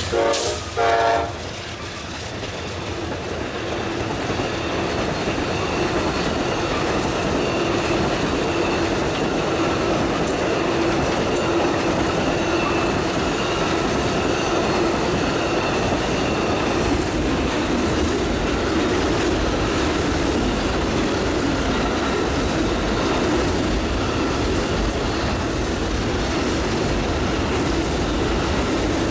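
Amtrak Auto Train passing: a last short horn blast about a second in, then the long string of cars rolling by steadily, wheels clattering over the rail joints.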